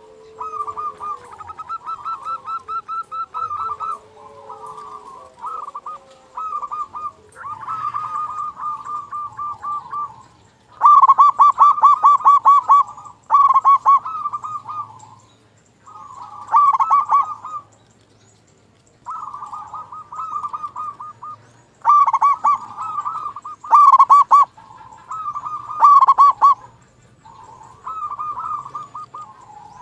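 Zebra dove (perkutut) cooing: repeated phrases of rapid, rolling coos, each a second or few long with short pauses between, some loud and others fainter.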